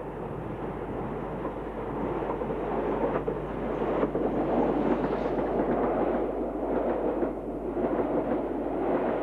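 Steam train running past, a dense rushing rumble that grows louder over the first few seconds and then holds steady, with a faint low hum underneath.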